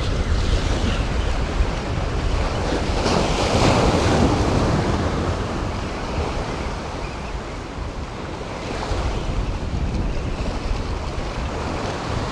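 Gulf surf washing against jetty rocks, with wind buffeting the microphone; one wave surges louder about three to four seconds in.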